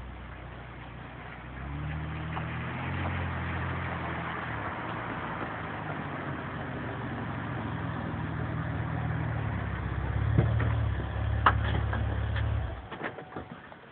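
2006 Ford Fusion's 3.0-litre V6 running through a Magnaflow cat-back exhaust, a steady low exhaust note that grows louder about two seconds in and again near the end, then cuts off abruptly with about a second left.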